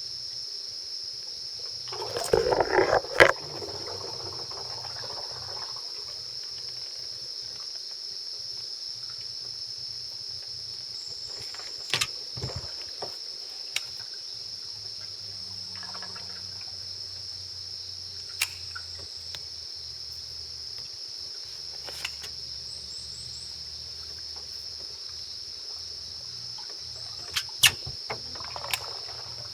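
Steady high-pitched chirring of insects, with scattered knocks and clicks of tackle and gear being handled in a small boat; a louder rustling clatter about two to three seconds in and a few sharp clicks near the end.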